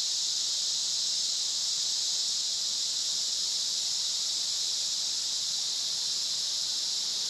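Steady, high-pitched chorus of night insects, an unbroken shrill drone.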